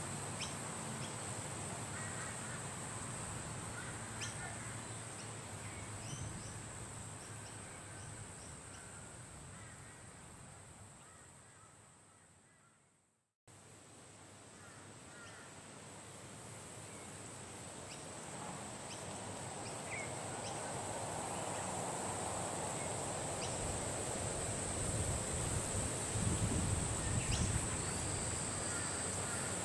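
A nature soundscape: wind with a steady high drone of crickets or other insects, and scattered short bird chirps. It fades out to silence about thirteen seconds in, then fades back up, with the wind rumbling louder near the end.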